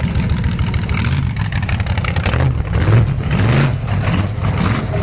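Large truck engine revving up and down several times, its low pitch rising and falling, with a rough, gritty noise over it.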